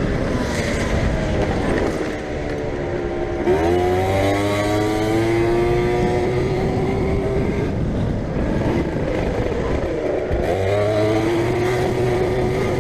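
Motorcycle engine under way. Its pitch falls off over the first few seconds, climbs sharply as it accelerates about three and a half seconds in, and then holds steady. It drops again about ten seconds in and climbs back up near the end.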